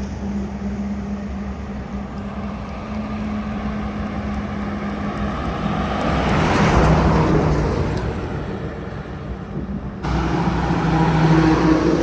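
Heavy diesel trucks running along a highway. One truck's engine and tyres swell to a peak as it passes a little past the middle, then fade away. After a sudden cut, another truck comes up loud near the end.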